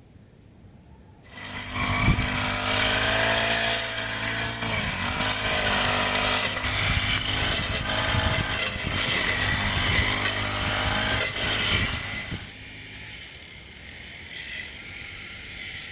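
A small engine running loudly, its pitch wavering up and down. It starts abruptly just over a second in and cuts off abruptly about three seconds before the end, leaving a quieter background.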